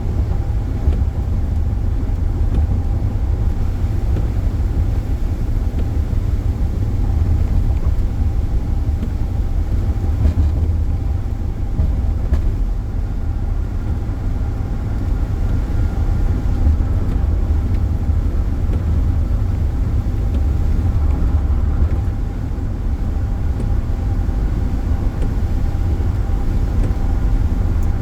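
Steady low road and engine rumble inside a moving car at highway speed, with a faint steady whine over it.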